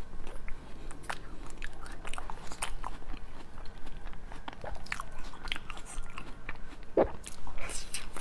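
Close-miked eating of a white corn cob dipped in cream: crunchy bites and chewing, many short crisp clicks, with a louder bite about seven seconds in.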